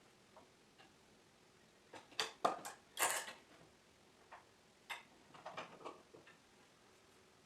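Short knocks and clicks of wooden parts and tools being handled and fitted together: a quick cluster of sharp knocks about two seconds in, then scattered lighter taps around five to six seconds.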